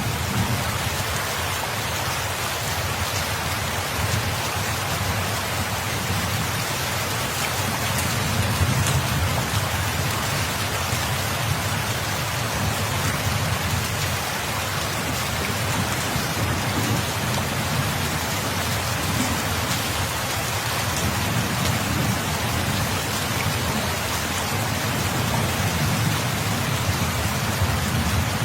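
Steady heavy rain falling and pattering on surfaces, with a low rumble underneath that swells now and then.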